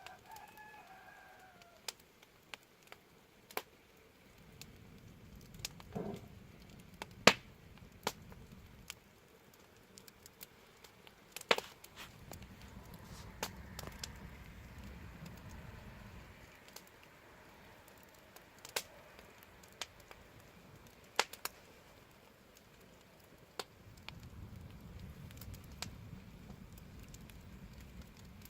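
Wood fire crackling, with sharp pops scattered through and one especially loud pop about seven seconds in, over a low rumble that swells and fades three times. A chicken calls once at the very start with a short call that falls in pitch.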